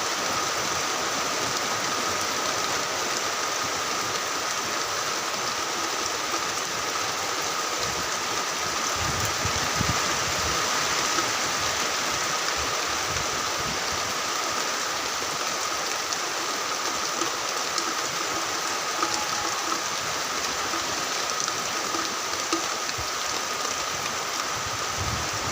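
Heavy rain falling steadily, a dense even hiss with no breaks, with a thin steady tone held underneath it.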